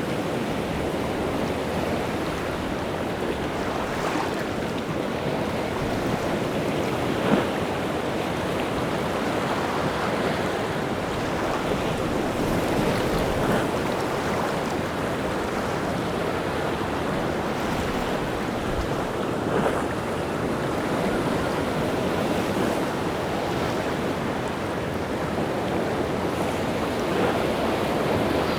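Rough sea surf breaking on the shore: a steady wash of waves, stirred up by wind, with a few sharper crashes, the loudest about seven seconds in.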